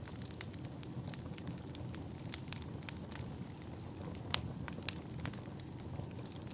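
Wood fire burning: irregular crackles and pops over a low, steady rumble, with one louder pop a little past the middle.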